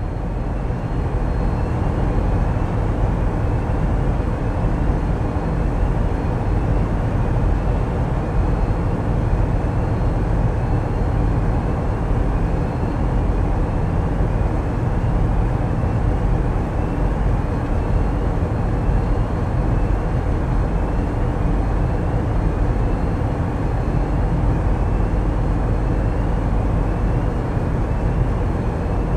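Tugboat's diesel engines running steadily, a deep continuous drone, with a faint short rising chirp repeating about once a second.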